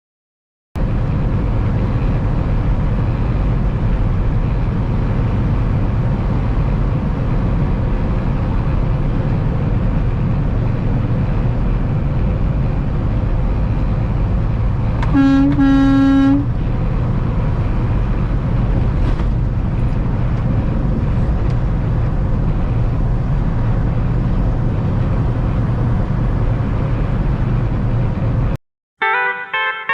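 Steady engine and road noise of a semi truck driving on the highway. Midway through, a horn sounds once for about a second.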